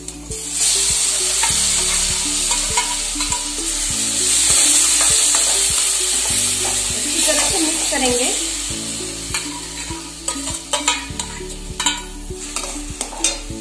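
A wet crushed-peanut and spice mixture sizzling loudly in hot oil in a steel kadai. The sizzle starts about half a second in and dies down slowly over the last few seconds. A metal spoon clicks and scrapes against the pan as the mixture is stirred.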